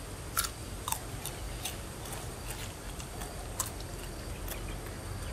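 A person biting and chewing raw palm heart, with irregular crisp crunches, the loudest in the first second.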